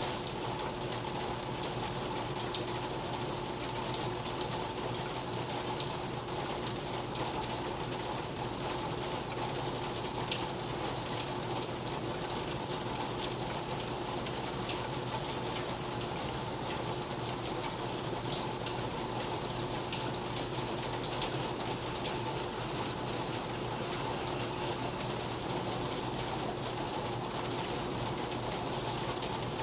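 Steady rain ambience: an even wash of rainfall with scattered sharp ticks of drops striking nearby surfaces, over a faint constant hum.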